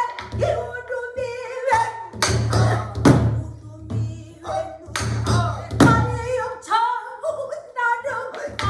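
Pansori singing: a solo voice holding long, bending, wavering notes, accompanied by sharp strokes on a buk barrel drum, the loudest about two, three and six seconds in.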